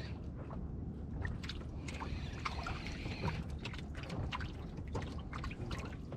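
Water splashing and trickling around a small fishing boat, with a steady low rumble and many irregular light clicks and taps.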